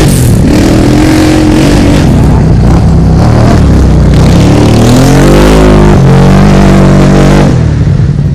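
Several off-road ATV and dirt bike engines running loud together, revving up and down, with pitch glides about five to six seconds in.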